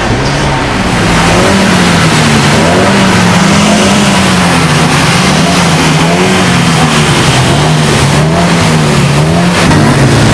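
Alfa Romeo car engine revved up and down over and over, the revs rising and falling about once a second.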